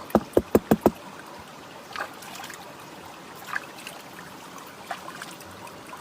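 Water trickling and swishing during gold panning, with a quick run of five sharp knocks in the first second that are the loudest sound.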